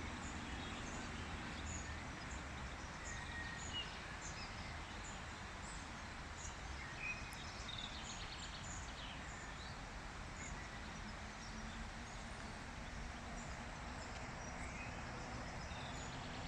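Outdoor nature ambience: a steady background hiss and low rumble with many short, high bird chirps scattered throughout.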